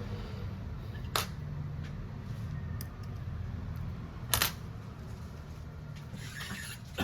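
Small hard clicks of tools and phone parts being handled during a phone repair: one about a second in, a louder one past four seconds, then a light rustle near the end, over a steady low hum.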